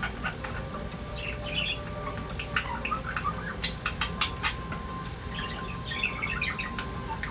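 Pet budgerigars chattering, a quick, irregular jumble of clicks and short chirps, over a low steady hum.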